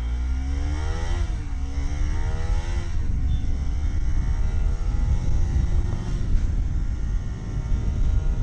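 Bajaj Pulsar NS200's single-cylinder engine accelerating through the gears: the engine note climbs, drops at a gear change about a second in, climbs again, drops at another change about three seconds in, then runs on at a steadier, slowly rising pitch. A heavy low rumble of wind on the microphone lies under it.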